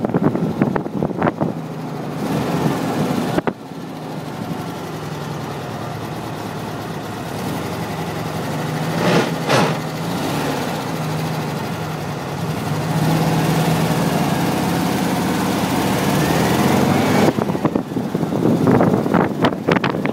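1958 Volkswagen Beetle's air-cooled flat-four engine running as the car drives, its pitch shifting slightly. Wind buffets the microphone in the first two seconds and again for the last few.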